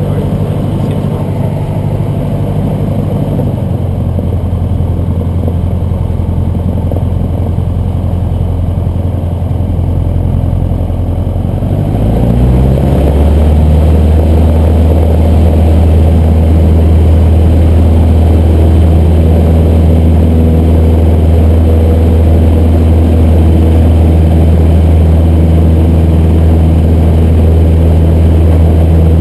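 Cessna 150's four-cylinder Continental O-200 engine running steadily, heard from inside the cockpit. About 12 seconds in the throttle is opened and the engine speeds up, then holds a louder, higher, steady drone.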